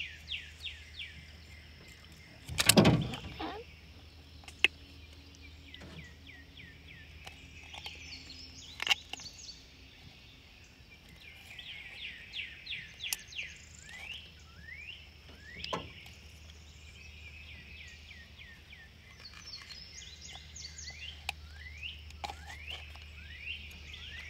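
Songbirds singing in bursts of quick, repeated slurred whistles over a faint steady low hum. There is a loud thump about three seconds in, and a few sharp clicks.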